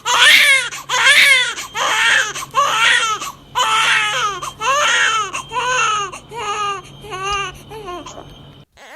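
Baby crying: a run of short wails, one after another, growing shorter and fainter until they stop just before the end.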